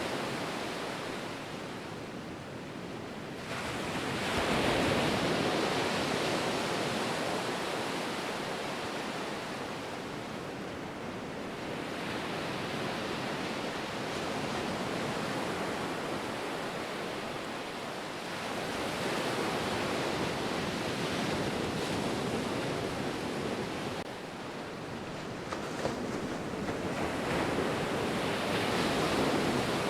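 Ocean surf: waves breaking and washing in as a continuous rush of water. It swells louder with bigger waves about four seconds in, again around nineteen seconds, and near the end.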